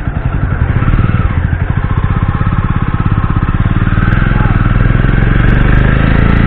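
Motorcycle engine running with a rapid, even beat, getting a little louder about a second in.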